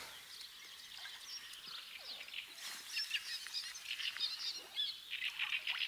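Small birds chirping and singing in many short, high calls, sparse at first and busier from about halfway through.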